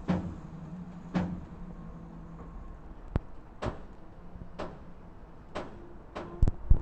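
Train wheels knocking over rail joints: single sharp knocks about once a second, coming quicker near the end, over a low steady hum.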